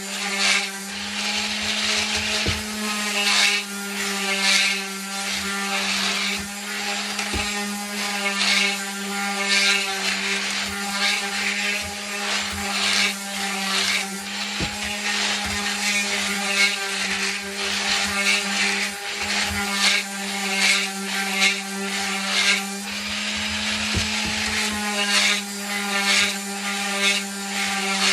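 Electric sander running steadily with 220-grit paper on wood, its motor holding one pitch while the scratch of the paper swells and fades about once a second as it is worked back and forth over the surface.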